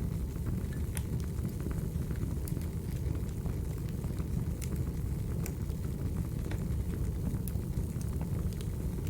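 Wood fire burning: a steady low rumble with scattered sharp crackles and pops at irregular moments.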